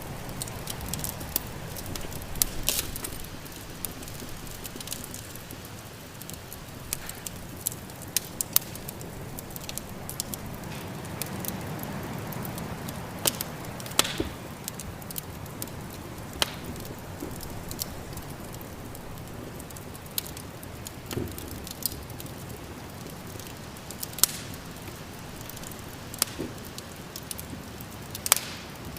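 Wood fire crackling, with sharp pops scattered irregularly throughout. Underneath is a steady rushing of snowstorm wind that swells around the middle.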